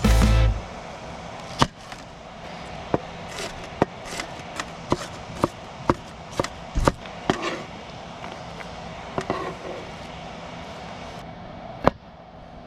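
Knife chopping vegetables on a cutting board: a run of sharp knocks, about two a second, that thins out after about seven seconds, with one louder knock near the end. Background music cuts off in the first half second.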